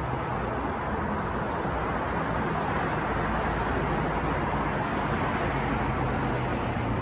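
Steady city traffic noise: a continuous wash of passing cars and engines, with a low hum underneath and no single event standing out.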